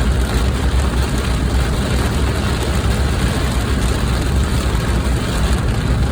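Steady low rumble with an even hiss over it, typical of the inside of a car on the road.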